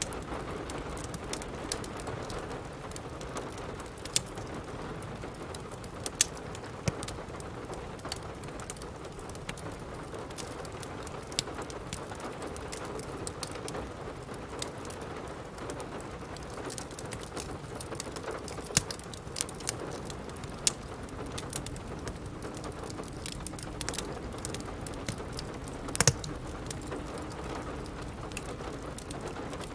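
Steady rain mixed with the irregular pops and snaps of a crackling fireplace fire, the loudest pop about three-quarters of the way through.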